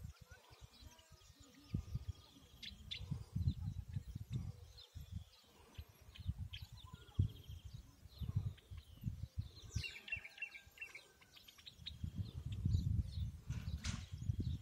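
Wild birds chirping and singing in short calls, with a fast trill about ten seconds in, over low rumbles that come and go.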